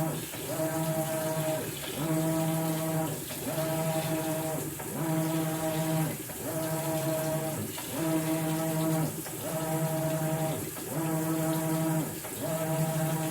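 Maytag Bravos XL top-load washer's drive motor humming in repeated strokes about every one and a half seconds, its pitch gliding up as each stroke starts and down as it stops: the washer agitating the load back and forth during a bedding cycle.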